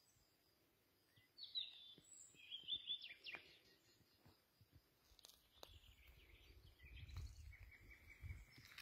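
Wild birds singing in short phrases, faint against the quiet. A low rumbling noise builds in the second half.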